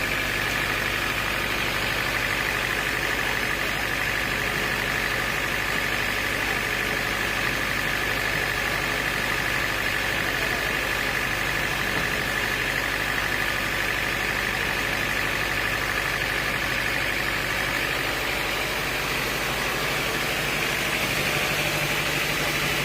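Sawmill machinery running steadily, with a high whine that fades away about three-quarters of the way through.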